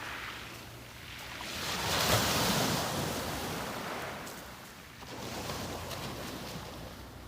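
Sea waves breaking on a beach and washing back. One wave surges up about two seconds in and drains away, and a weaker one follows a few seconds later.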